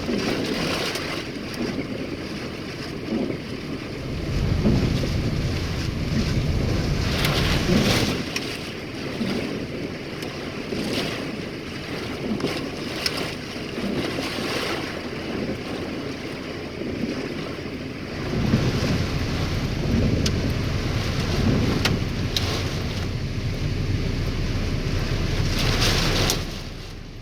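Hail and heavy rain pelting down in gusting wind: a dense roar of noise with many sharp ticks of hailstones striking a hard surface, swelling louder several times.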